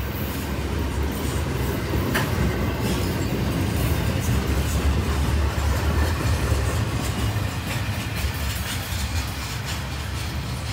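Double-stack intermodal freight train's container cars rolling past: a steady low rumble of steel wheels on rail, with occasional sharp clicks.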